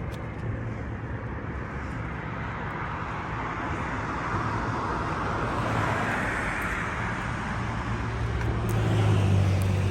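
Steady roar of interstate traffic passing beneath the bridge, swelling as vehicles go by about midway, with a low engine rumble building near the end.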